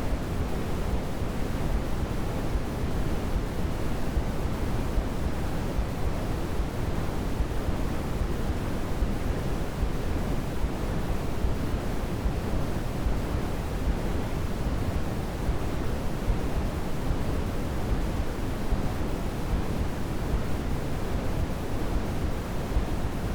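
Steady white noise for baby sleep, an even rushing hiss weighted toward the low end like pink noise, with no change or events.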